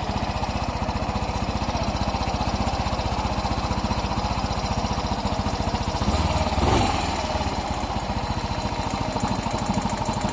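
Yamaha Mio i 125's single-cylinder four-stroke engine running at idle with a rapid, even ticking knock, swelling briefly about six seconds in. The mechanic places the noise in the cylinder head (ticking) and possibly the cylinder block (piston slap).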